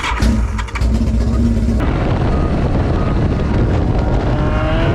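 Motorcycle running at speed, a steady loud mix of engine and wind noise.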